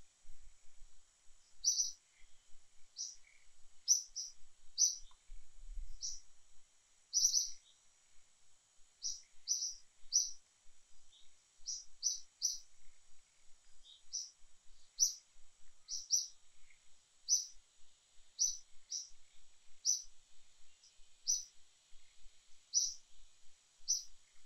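A bird calling in short, high chirps, about one a second, over a steady high hiss.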